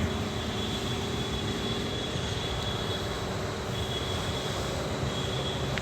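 Steady mechanical hum with a faint high whine over it, even throughout.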